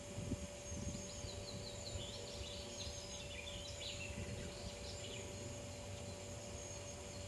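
A small songbird singing one short phrase of high chirping notes, which drop lower about halfway through, over steady outdoor background noise and a faint steady hum.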